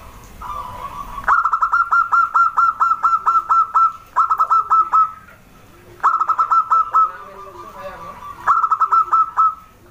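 Zebra dove (perkutut) calling: four bouts of quick, clipped staccato notes at about five a second, the first and longest about a second in, with short pauses between bouts.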